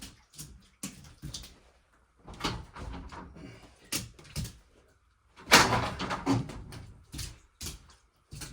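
Knocks and thuds on wood, about two a second, with a louder, longer scraping thud about five and a half seconds in.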